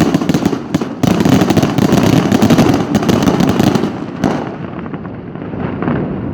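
Daytime fireworks battery going off in a dense, rapid crackle of firecracker bangs. The bangs stop about four seconds in, leaving a low rumbling echo.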